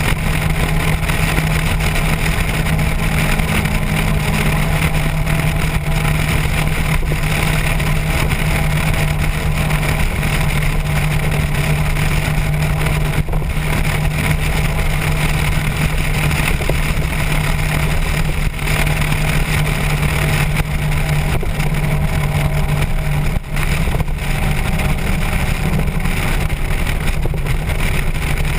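Motorcycle engine running at a steady cruising speed, its hum holding nearly one pitch, under a constant rush of wind and road noise. There is a brief drop in loudness about 23 seconds in.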